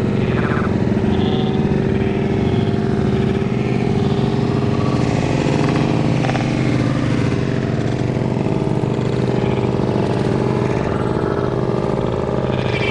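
Motorcycle engine running on and on at a steady pitch with its throttle locked open.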